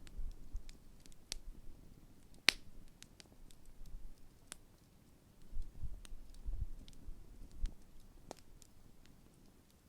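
Large wood bonfire crackling, with scattered small pops and one sharp, loud snap about two and a half seconds in.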